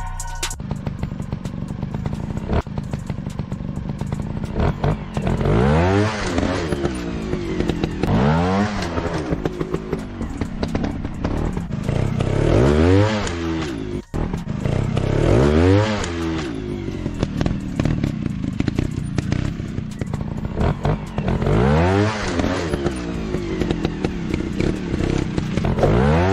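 Motorcycle engine revving up and dropping back again and again, about six times, over a steady rough running sound.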